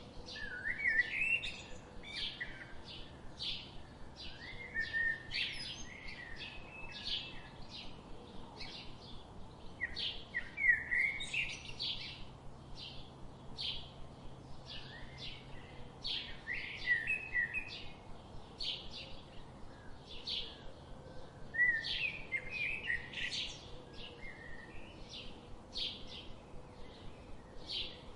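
Songbirds chirping in a forest: a steady run of short, high chirps, with a fuller warbled song phrase breaking in every five or six seconds.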